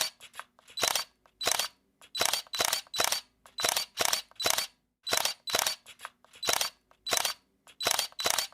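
Camera shutter clicking over and over, sharp clicks coming in quick groups of two or three, about two to three a second.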